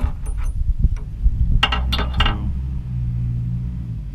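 A vehicle engine running with a low, steady rumble that settles in after about two and a half seconds. Before it come a few sharp metallic clicks and clinks.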